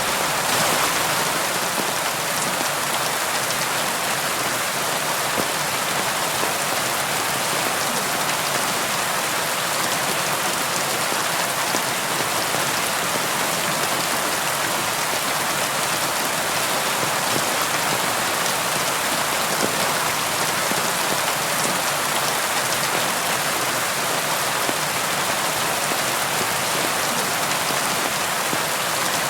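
Steady rain falling and pattering on a surface, a continuous even hiss without breaks.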